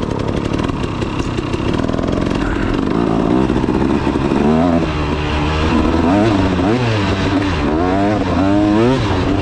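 KTM 300 two-stroke dirt bike engine running while being ridden, steady at first, then revving up and down repeatedly from about halfway in as the throttle is worked.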